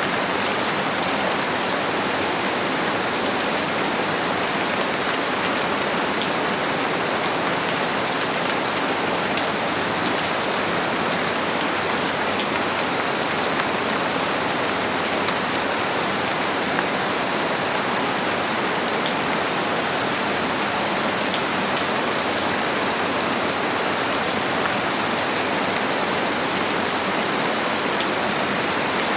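Steady rain falling on a surface: a dense, even hiss with many small drop ticks.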